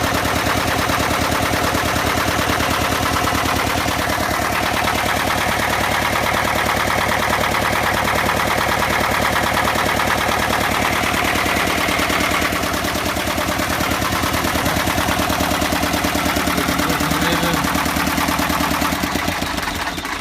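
BMW D35 marine diesel engine running with a loud, rapid, even clatter. Near the end the sound drops away abruptly.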